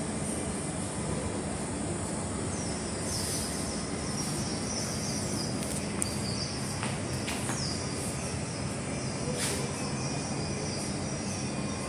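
Steady ambient noise of a public indoor space, an even hum and hiss, with a few short high-pitched chirps and faint clicks through the middle seconds.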